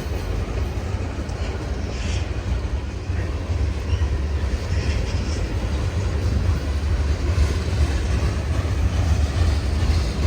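Freight cars of a passing train rolling by on the rails, a steady low rumble.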